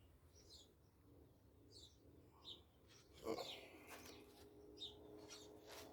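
Faint, scattered bird chirps, short and high, with a slightly louder chirp-like sound about three seconds in over a faint steady hum.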